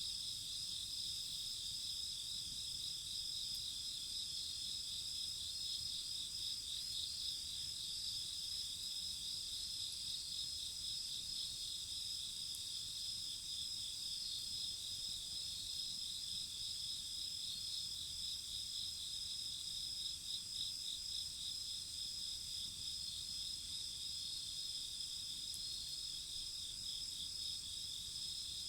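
Night chorus of crickets: several insects trilling together in steady, overlapping high-pitched pulsing songs, with a faint low rumble underneath.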